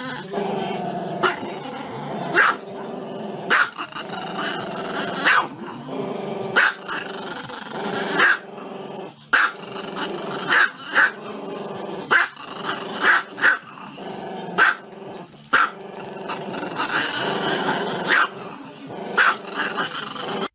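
Small black-and-tan dog growling steadily with its head raised, breaking into sharp barks about once a second.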